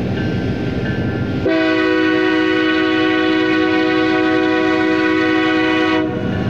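Freight train locomotive's air horn sounding one long blast of several notes at once, starting about a second and a half in and cutting off near the end, over the rumble of the passing Union Pacific intermodal train.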